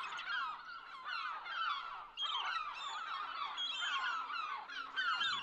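A flock of birds calling at once: many short, falling calls overlapping continuously.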